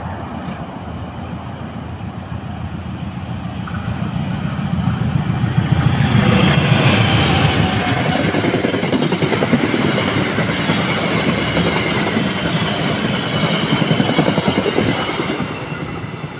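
Passenger train hauled by two GE diesel-electric locomotives passing close by. The engines' rumble builds to a peak about six seconds in, then the coaches' wheels clatter steadily over the rails before the sound dies away near the end.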